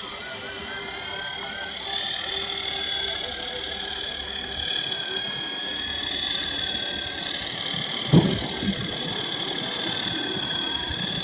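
Small brushed electric motors of an RC helicopter running steadily: a high whine whose pitch wavers slightly with throttle. A single thump about eight seconds in.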